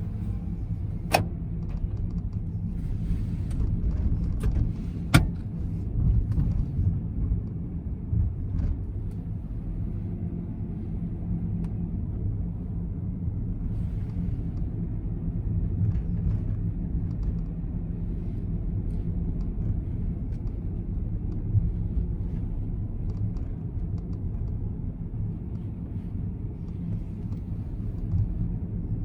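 Honda N-BOX's S07A three-cylinder engine running steadily, a low hum heard from inside the car, with two sharp clicks about a second and five seconds in.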